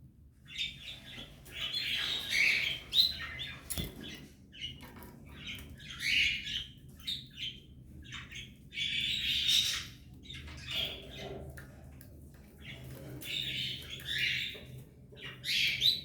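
Belgian canaries and their nestlings calling in short, scratchy high bursts that come again and again at irregular intervals.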